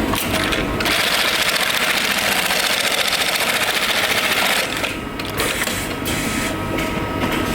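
Industrial sewing machine running in a rapid, even stitching rhythm. It is louder for about four seconds starting about a second in, then carries on more quietly.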